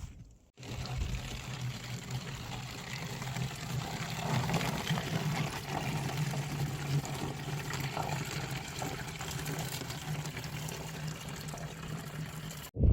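Spring water pouring steadily from the spring into a container being filled.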